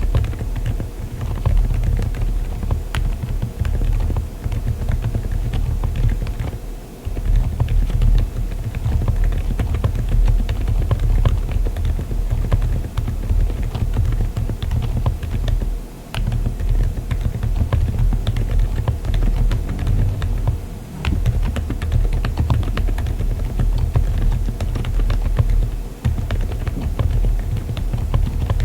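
Continuous fast typing on a mechanical keyboard fitted with Keychron Banana silent tactile switches: a dense run of dull, muted keystrokes, with a few brief pauses.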